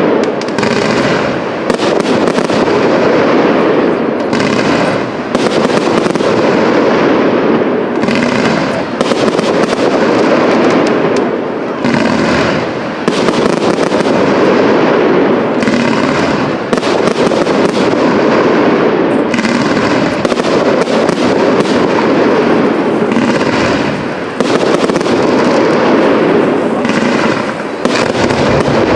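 Professional aerial fireworks display: a dense, continuous barrage of shell bursts and crackle, with brief dips in loudness every few seconds.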